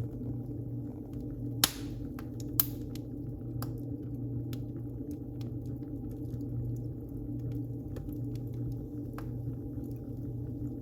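Wood fire burning in a fireplace: a steady low rumble with scattered crackles and ticks, and two loud pops less than a second apart a little under two seconds in.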